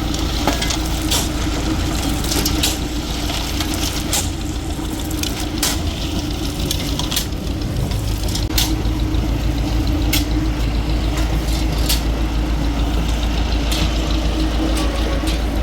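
A heavy engine running steadily at a constant speed, with irregular sharp knocks and clatters over it.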